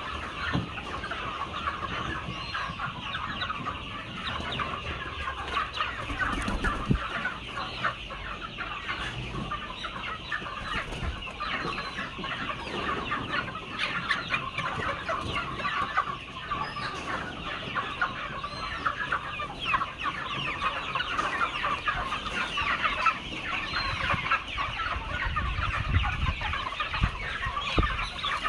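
A large flock of chickens clucking and calling continuously, many birds overlapping at once.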